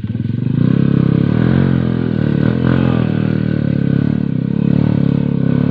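Dirt bike engine revving up from a quick low pulsing and held at high revs, its pitch wavering slightly.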